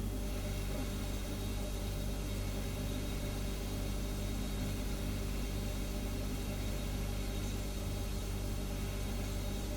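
Refrigerator humming: a low, steady hum with a soft hiss over it, unchanging throughout.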